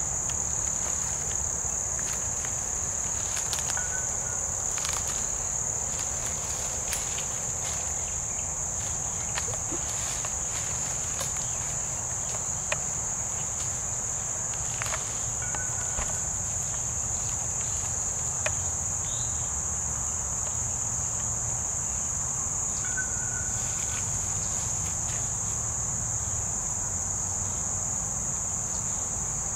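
Steady, high-pitched insect chorus, unbroken throughout, with scattered faint clicks and rustles.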